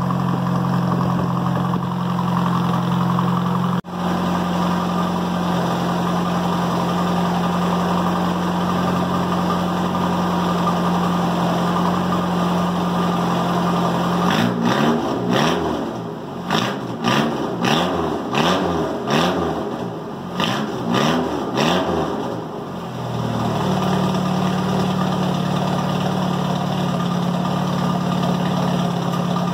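Engine of a small SUV running through a custom flexible exhaust pipe routed up over the roof, idling steadily. About halfway in it is revved in a quick series of throttle blips, rising and falling about twice a second for some eight seconds, then settles back to a steady idle.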